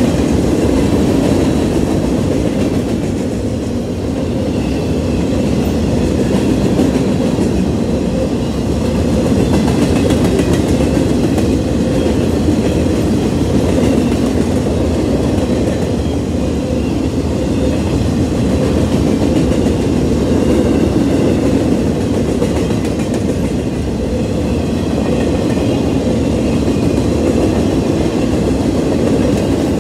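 Boxcars of a manifest freight train rolling past, their steel wheels on the rails making a steady, loud rumble.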